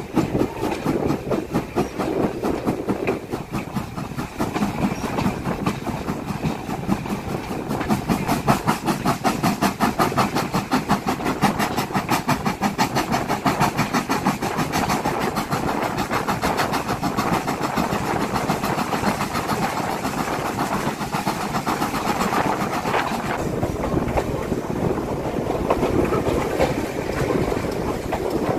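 Railway coach running along the track, its wheels clattering in a fast steady rhythm under a rush of air, heard from an open window of the moving carriage.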